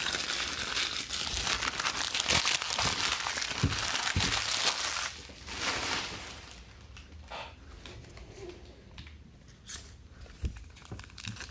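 Wrappers of 2019 Allen & Ginter baseball card packs being torn open and crinkled by hand. The crinkling is loud for about the first half, then quieter handling with a few sharp clicks.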